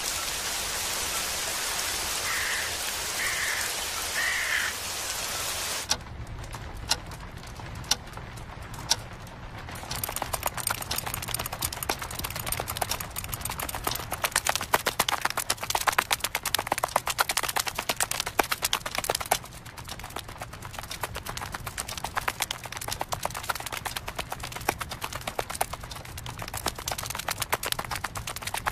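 Rain: a steady hiss for about the first six seconds, then scattered drops, and from about ten seconds in a dense, irregular patter of drops.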